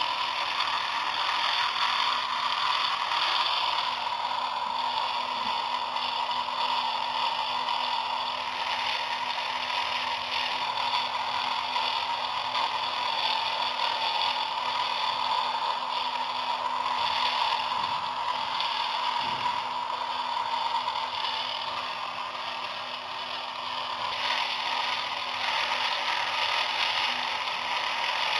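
Small electric motor and gears of a homemade model machine running steadily, a continuous even whir with a slight dip in level about three-quarters of the way through.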